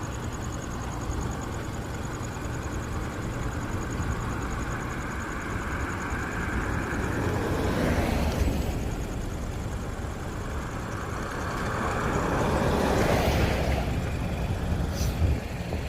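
Road traffic: a steady low rumble, with a vehicle passing about halfway through and another swelling and fading a few seconds later.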